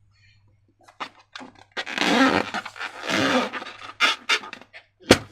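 Slime being squeezed and worked by hand against balloon rubber, in several short wet squelching squishes, with one sharp click near the end.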